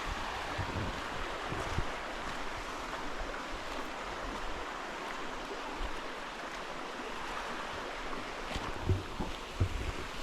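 Shallow creek water running steadily over rocks, a continuous rushing hiss, with a few low wind bumps on the microphone near the end.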